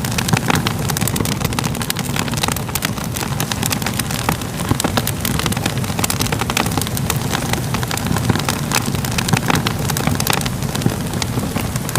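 A wood fire crackling: frequent irregular sharp crackles and pops over a steady low rumble of flames.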